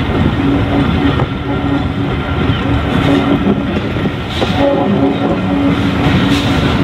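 Railway coaches rolling slowly past at close range, their wheels rumbling on the track with a few sharp clacks and a low steady tone that comes and goes.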